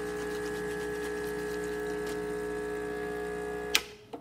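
Rancilio Silvia espresso machine's newly replaced vibratory pump running steadily with a buzzing hum while water flows, then switched off with a sharp click near the end, followed by a smaller click.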